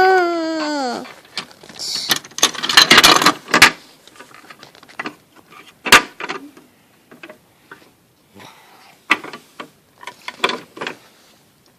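A long held wail, likely a child's voice, slides down and stops about a second in. Then come scattered sharp clicks, knocks and rattling of small objects being handled, busiest in a rattly stretch around two to three and a half seconds, with one sharp click near the middle.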